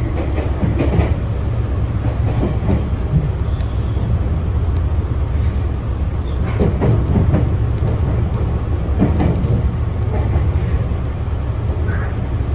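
Meitetsu local electric train running at speed, heard from inside the front cab: a steady low rumble with the clack of wheels over rail joints every second or two.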